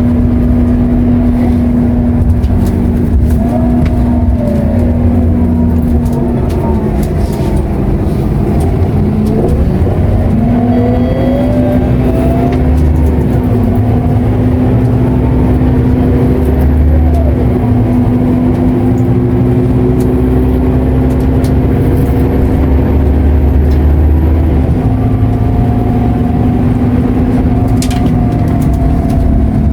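Onboard sound of a Scania K230UB city bus's five-cylinder diesel engine and automatic transmission running under way, with a steady low drone and a constant tone. In the first third the pitch rises and falls several times, and the main tone breaks off briefly, as with a gear change.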